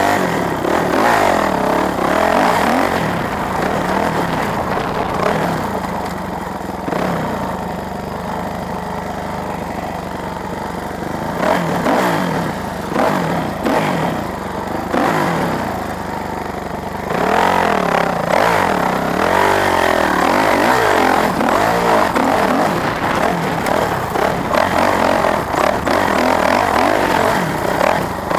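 Motorcycle engines revving, their pitch repeatedly rising and falling, busier and louder from a little past halfway.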